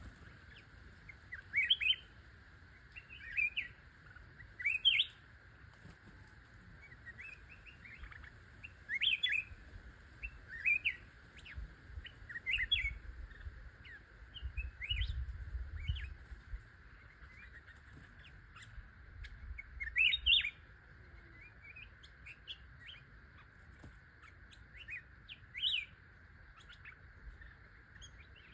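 A small songbird giving short rising chirps in quick phrases, every second or two, over a steady high drone in the background.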